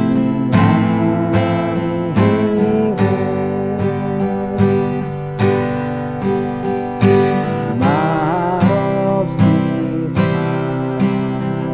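Acoustic guitar strummed steadily in a down, down, up, down, up stroke pattern, moving through chord changes.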